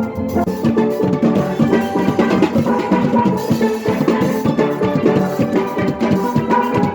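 Steel band playing a tune on many steel pans, backed by drums and percussion.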